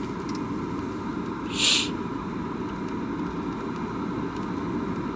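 Steady road and engine rumble heard inside a moving car on snowy roads, with one short hiss about a second and a half in.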